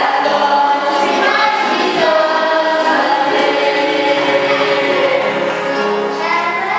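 Choir singing, holding each note and moving from one to the next without a pause.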